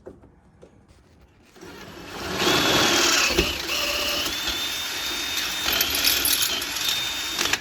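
Power drill with a quarter-inch bit drilling through metal, using an existing pilot hole. The motor whine starts about a second and a half in, runs steadily for about six seconds and stops abruptly near the end.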